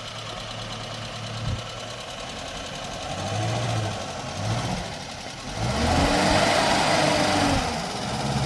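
A small engine running steadily at a low idle, then revved up and back down, louder, from about six seconds in.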